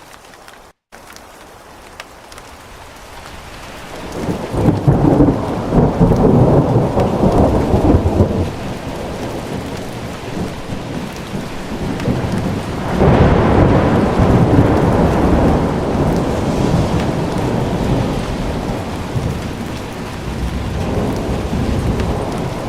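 Steady rain with thunder: a long rumble rolls in about four seconds in, and a second one about thirteen seconds in, slowly fading.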